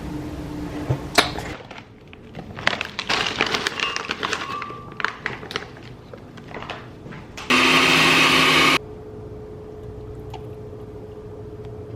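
Clicks and clattering, then a small motor runs loudly for about a second and cuts off suddenly, followed by a steady faint hum.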